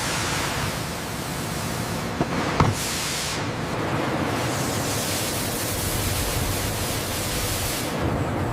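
Steady rushing noise of running factory machinery, with two short clicks about two and a half seconds in.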